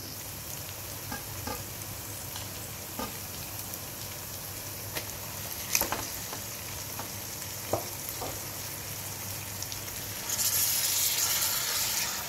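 Chopped onions and dried red chillies sizzling in hot oil in a metal pot as marinated chicken pieces are laid in, with a few sharp clinks of a spoon against the pot. The sizzle grows louder about ten seconds in.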